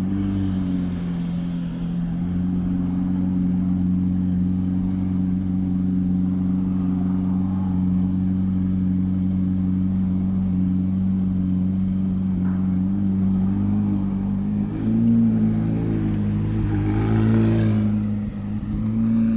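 McLaren 750S twin-turbo V8 idling steadily after a cold start. In the last few seconds the idle wavers, with two brief light rises in engine speed.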